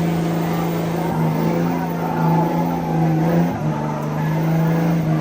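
Truck engine held at steady high revs, its pitch dipping briefly about three and a half seconds in and again near the end.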